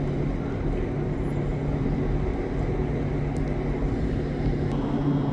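Steady low engine drone with a constant hum, with a couple of faint clicks near the end.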